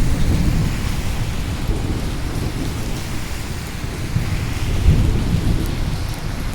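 Steady rain with rolling thunder rumbling low underneath, swelling about four to five seconds in.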